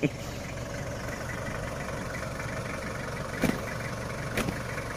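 A vehicle engine idling steadily, with two short knocks near the end.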